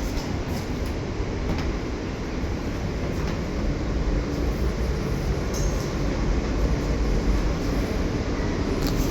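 New York City subway R train car, a steady rumble with a few faint clicks.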